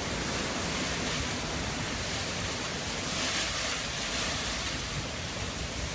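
Storm-force wind rushing over the microphone: a steady, dense noise with no distinct strokes or tones.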